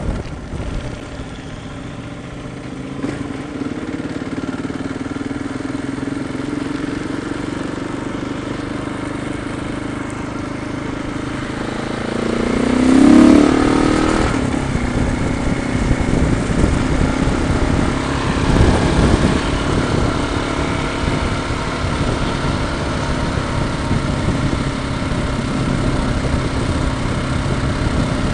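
Motorcycle engine running steadily under way, with road and wind noise. A louder swell with a gliding pitch comes about thirteen seconds in.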